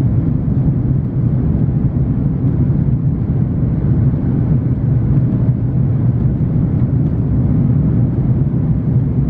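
Steady low rumble of engine and airflow noise inside the cabin of an Airbus A330-941 with Rolls-Royce Trent 7000 engines.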